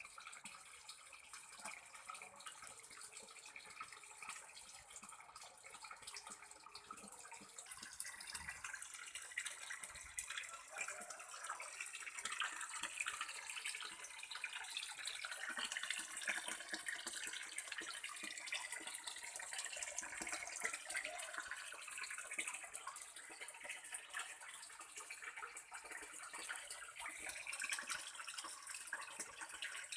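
Water trickling and splashing steadily into a fish pond, a busy patter of small splashes that grows somewhat louder from about twelve seconds in.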